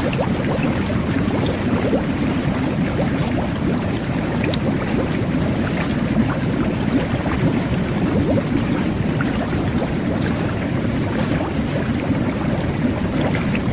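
Jet bath (whirlpool tub) running, its jets churning the bathwater into a steady low rush of bubbling, with many small bubble pops.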